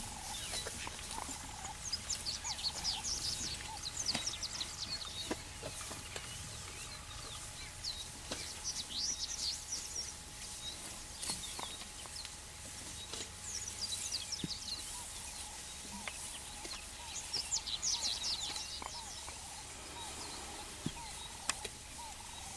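Wild birds calling in bursts of rapid, high chirping notes every four to five seconds, over a steady low background rumble.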